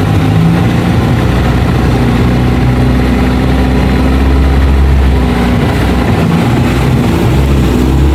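Suzuki off-road 4x4's engine running steadily at low revs.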